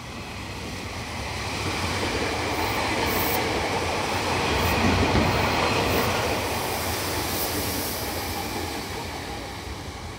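A Meitetsu Panorama Super express train running through the station at speed, the noise of its wheels on the rails growing louder to a peak about halfway through, then fading as the cars go by.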